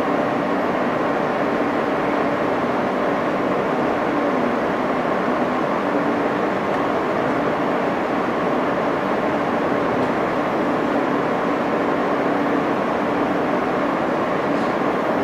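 R160 subway car running between stations, heard from inside the car: a steady rumble of wheels on rail with a faint, even hum from the motors.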